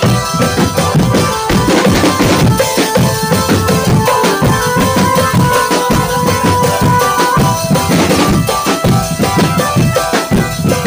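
Drum band playing: fast, dense drumming with bass drum and snare beats, and a held melody line over it in the middle of the passage.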